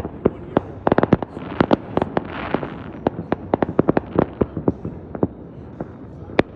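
Fireworks going off: a rapid, uneven series of sharp bangs and crackles, bunched in quick clusters, with one loud bang near the end.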